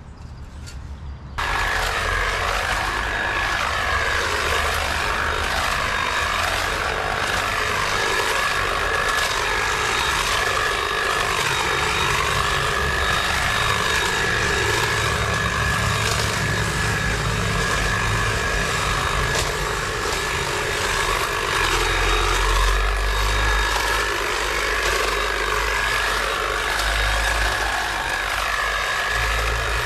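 A powered machine starts abruptly about a second and a half in and then runs steadily and loudly, with a constant high whine over a low rumble that swells near the end.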